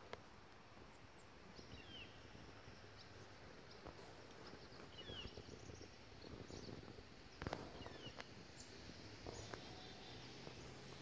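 Faint outdoor quiet with a few short, high bird chirps now and then, and one soft bump about two-thirds of the way through.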